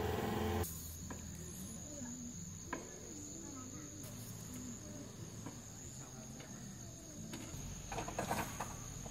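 Steady high-pitched insect trill, cricket-like, over a quiet outdoor background, with a few faint knocks near the end. A louder engine-like sound cuts off less than a second in.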